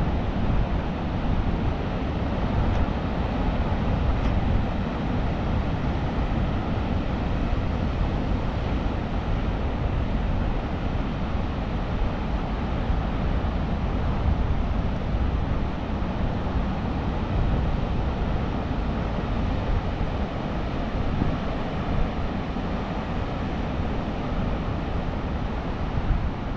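Steady rush of Atlantic surf breaking along the shore, mixed with wind buffeting the camera microphone, with no let-up.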